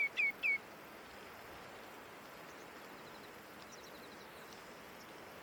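Common greenshank giving its three-note call, three quick notes that each drop slightly in pitch, in the first half second. After that there is only faint steady background hiss, with a few faint high ticks.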